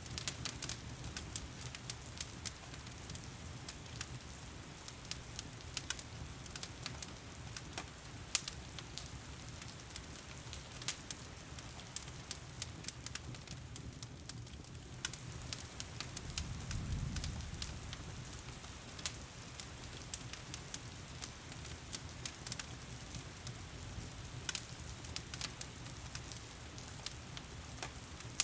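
Wood fire crackling with frequent sharp pops over a steady hiss of heavy rain. A low rumble swells and fades about two-thirds of the way through.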